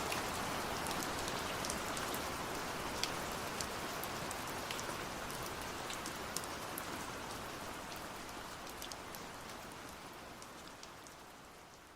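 Heavy rain falling steadily, with scattered sharp drop hits, gradually fading out through the second half.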